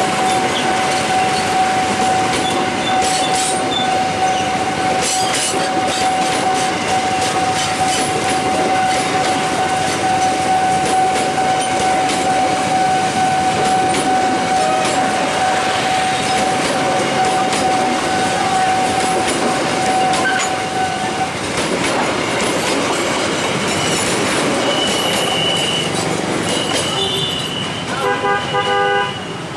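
Passenger coaches of a locomotive-hauled express train rolling past close by: a loud, steady rumble of wheels on rail, with a steady high-pitched wheel squeal that stops about two-thirds of the way through. Near the end a train horn sounds in a few short toots.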